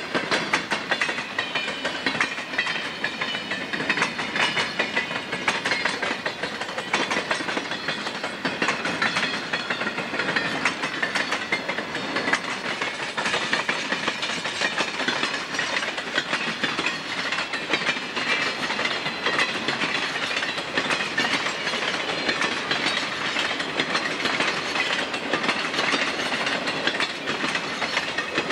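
Freight cars (covered hoppers, boxcars, tank cars) rolling steadily past on steel rails: a continuous clickety-clack and rattle of wheels over the rail joints, with a faint wavering high squeal underneath.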